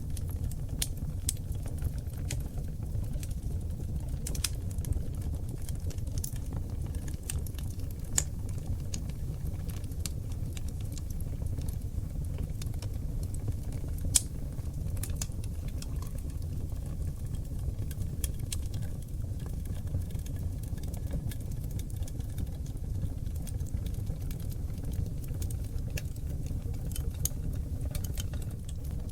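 Seasoned oak logs burning in a wood fireplace: a steady low rumble of flames with frequent small crackles and sharp pops, the sharpest about 8 and 14 seconds in.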